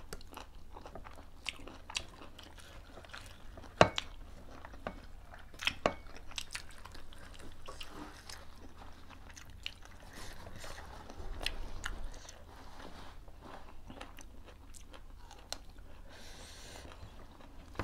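Close-up eating sounds: chewing and biting of rice, curry and vegetables eaten by hand, with many small wet mouth clicks. A sharp click stands out about four seconds in, and another near six seconds.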